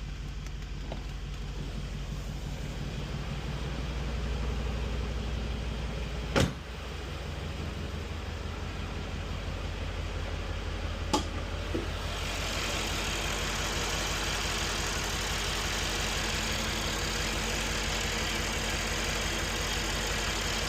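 2018 Mercedes-AMG C63 S's twin-turbo V8 idling steadily during warm-up after a cold start. Two sharp clicks come through, about six and eleven seconds in, and a steady hiss joins the engine from about twelve seconds in.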